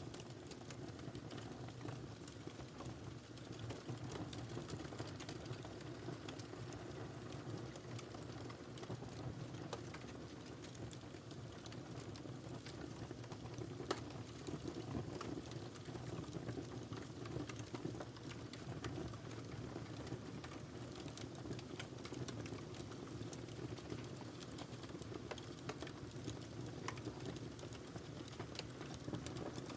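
Wood fire crackling in a fireplace: a steady low rumble of flames with many small pops and snaps, one louder snap about halfway through.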